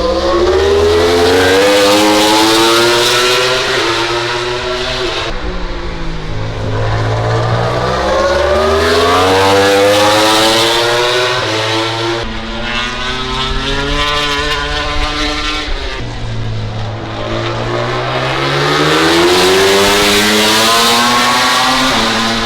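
MotoGP race motorcycles with 1000cc four-cylinder engines running at full throttle on track, the engine pitch repeatedly climbing and dropping back as they shift up through the gears. Several bikes can be heard one after another, sometimes overlapping.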